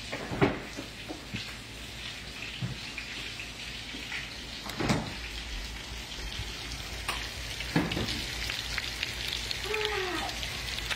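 Hamburger steak patties frying in grease in a cast-iron skillet on a gas burner: a steady crackling sizzle that builds slightly near the end, with a few sharp knocks, the loudest about half a second in.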